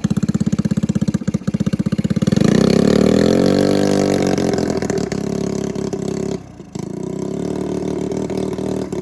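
A small combustion engine running with a rapid, even firing beat. A little over two seconds in it speeds up, its pitch rising and then easing, and settles into a steady run. It drops out briefly about six and a half seconds in.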